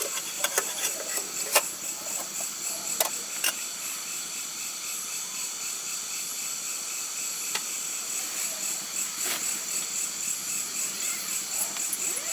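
Steady, high-pitched chorus of insects, such as crickets, in a forest at dusk, with a few sharp clicks or taps in the first few seconds.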